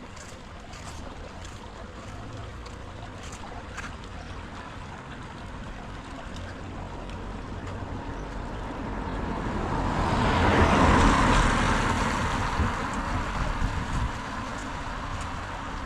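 Steady rain hiss with light drip ticks, while a car passes on the wet road, its tyres hissing on the wet surface as it swells in and fades, loudest about two thirds of the way through.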